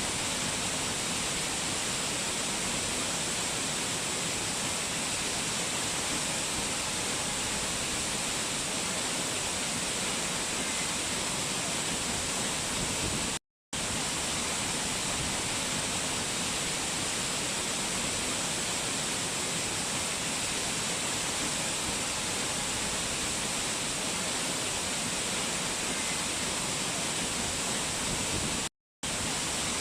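Steady rush of fast-flowing mountain water, with a bright hiss on top. It cuts out to silence for a split second twice, about halfway through and near the end, like the seams of a looped recording.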